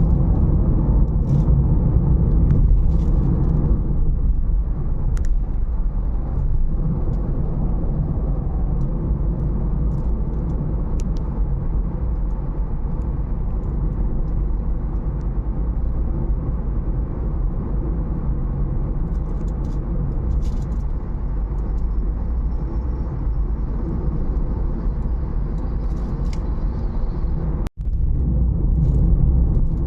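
Strong dust-storm wind buffeting the microphone: a steady low rumble that cuts out for an instant near the end.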